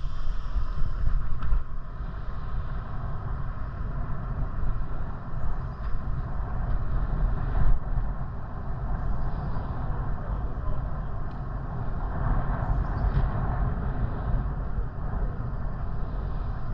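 Wind rushing and rumbling over the microphone of a moving bicycle, with road noise underneath; the level rises and falls without any clear tone or rhythm.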